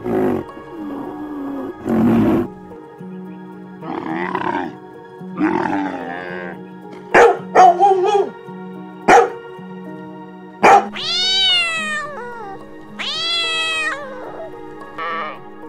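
A dog barking several times in short, sharp barks, then a cat meowing twice in long calls that fall in pitch. Steady background music runs underneath.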